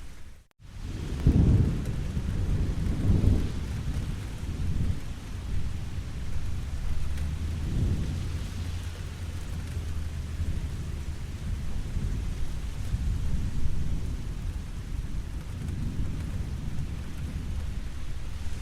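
Steady heavy rain falling, with low rolling thunder rumbling several times. The sound cuts out briefly about half a second in.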